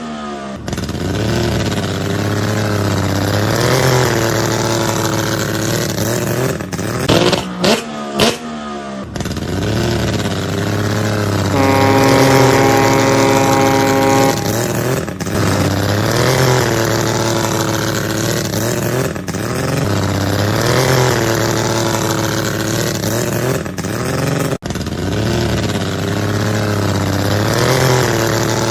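Vehicle engine revving up and down in a repeating pattern about every four seconds. Near the middle a steady pitched tone is held for about two and a half seconds, and a few sharp clicks come around seven to eight seconds in.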